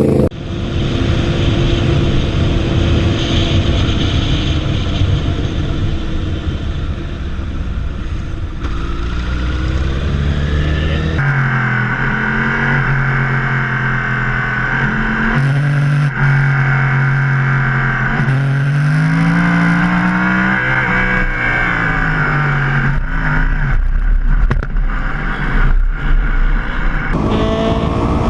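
Motorcycle riding: the engine runs under heavy wind rush, then, after an abrupt change about a third of the way in, it revs up and down in pitch as it accelerates and shifts. Another abrupt change comes near the end.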